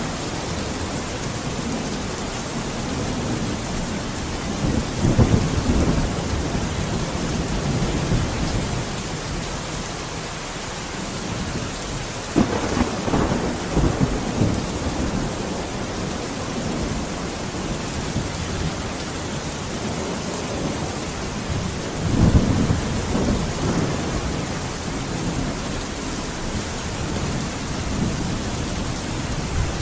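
Steady rain falling, with thunder rumbling three times, about 5, 13 and 22 seconds in.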